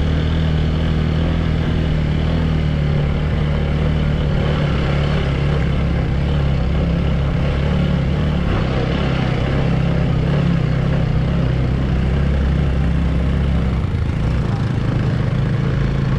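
Motorbike engine running at steady, even revs, its note shifting briefly about fourteen seconds in.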